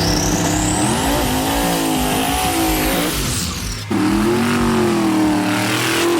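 Turbocharged drag-racing cars running hard, their engines revving up and down, with a high whistle rising near the start. About four seconds in, the sound breaks off abruptly into a steadier engine note.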